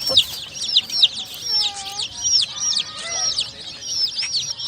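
Baby chicks peeping: a rapid, continuous string of short, shrill peeps from several chicks at once, each peep rising and then dropping in pitch.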